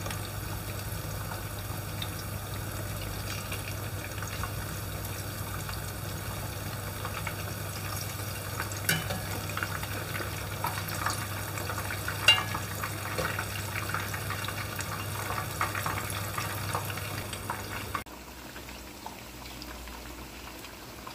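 Chicken pakoras frying in hot oil: a steady sizzle with scattered crackles and pops, over a low steady hum. About 18 seconds in, the hum stops and the sizzle drops abruptly to a quieter level.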